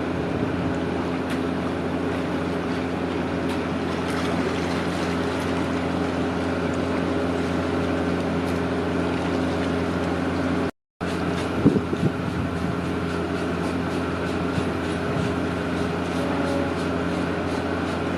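An engine runs steadily with a low, even hum. The sound cuts out for a moment about eleven seconds in, then the same hum carries on.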